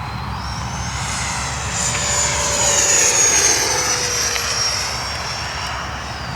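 Electric ducted fan of a 90 mm F-16 model jet whining as it moves past close by. It grows louder to a peak about three seconds in, then fades with its pitch dropping.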